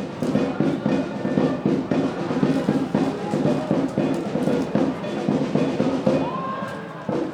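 Drums beaten in a steady fast rhythm, about three to four beats a second, as played by football supporters in the stands.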